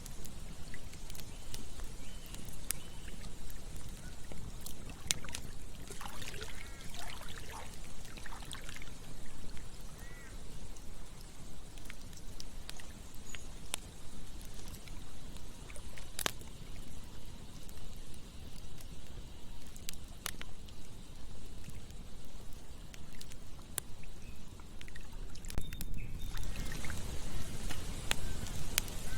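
Campfire crackling, with sharp pops scattered throughout, over the steady rush of flowing river water. A few short animal calls come in about six to ten seconds in, and the rushing hiss grows louder near the end.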